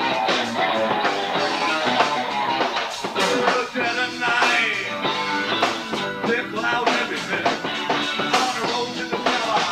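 Live rock band playing an instrumental passage: guitar, bass guitar and drums with a steady beat.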